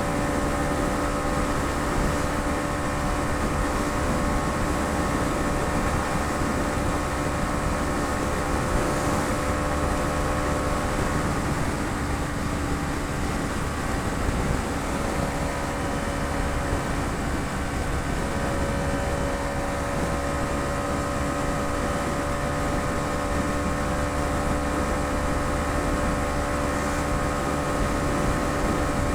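Bajaj Dominar 250's single-cylinder engine running at a steady cruise, its pitch holding nearly constant, under a rush of wind and road noise.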